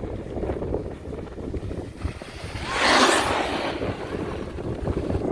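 Wind buffeting the microphone, a steady low rumble, with a loud rushing hiss that swells and fades about three seconds in.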